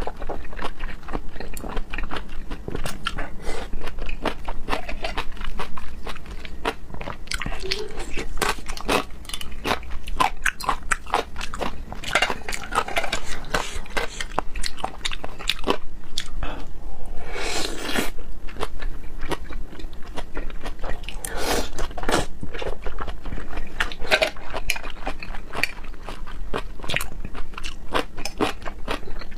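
Close-miked mouth sounds of a person eating raw seafood: wet chewing with a dense run of quick smacks and clicks, and a few short slurps.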